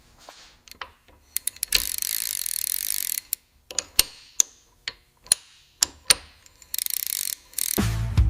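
Ratchet wrench clicking, in scattered single clicks and two quick runs of rapid ratcheting. Background music comes in near the end.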